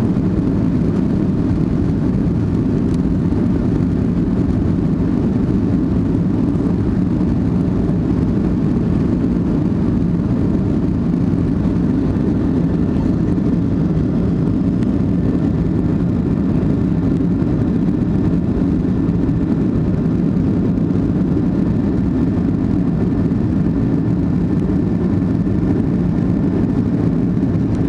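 Airliner cabin noise during takeoff: a loud, steady low rumble of the jet engines and airflow heard from inside the cabin, holding even throughout.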